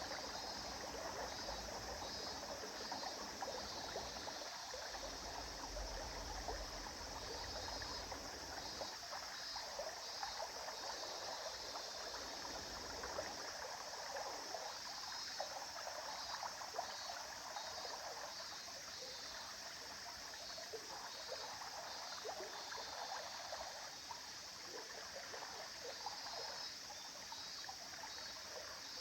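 A stream flowing and babbling over stones, a steady rushing with small irregular trickles and splashes; a low rumble underneath fades out in the first several seconds.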